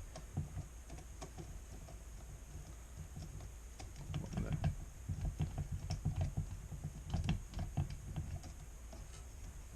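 Scattered light clicks, taps and knocks of parts and tools being handled on a workbench, irregular and busiest in the middle, over a steady low hum.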